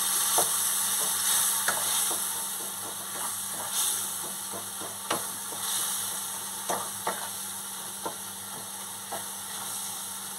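Spice masala sizzling in a non-stick wok while a spatula stirs and scrapes through it, with irregular knocks of the spatula against the pan. The masala is being fried down with a splash of water. The sizzle slowly gets quieter.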